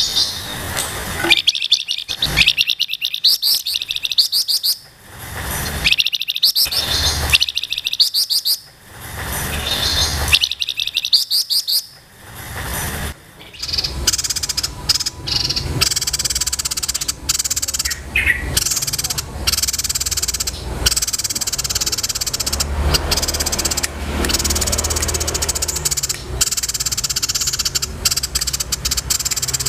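Songbirds singing: for the first dozen seconds or so, rapid trilled phrases a second or two long with short pauses between them, then a dense, unbroken high twittering chatter for the rest.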